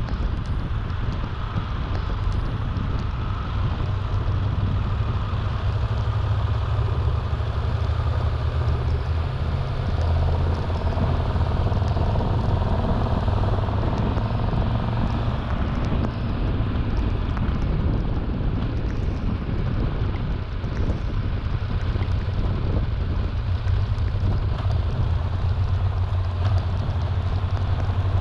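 Triumph Tiger 1200 Rally Explorer motorcycle riding along, its three-cylinder engine giving a steady low hum under wind noise on the microphone.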